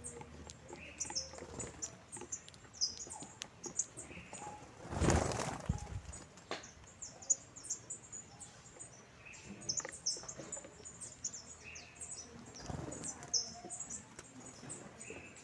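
A flock of saffron finches chirping while feeding, with many short, high chirps overlapping throughout. A brief loud rustle comes about five seconds in.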